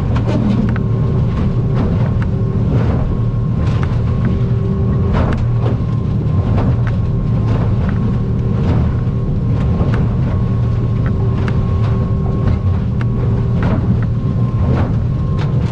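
Stabicraft 2050 Supercab aluminum boat running through rough water, heard inside the cab: a steady engine drone with a faint whine, broken by frequent irregular knocks and slaps as the hull hits the waves.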